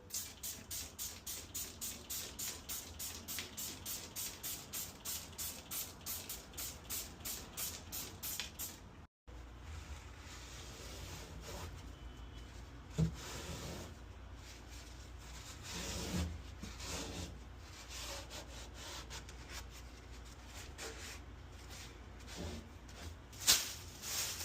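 Rhythmic scrubbing, about three even strokes a second, for the first nine seconds. After a break comes irregular rubbing and handling, with a sharp knock about four seconds later and another near the end.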